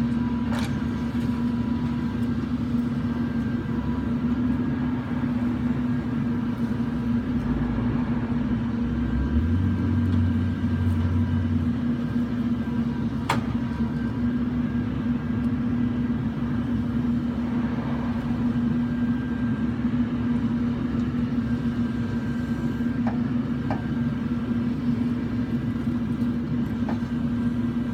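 Claw truck's engine running steadily with a constant low drone. A deeper hum joins in for a few seconds about a third of the way through, and a few sharp clicks or knocks sound, one about halfway and more near the end.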